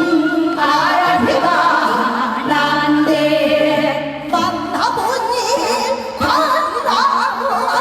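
A woman singing with instrumental accompaniment, her voice wavering in a strong vibrato on held notes.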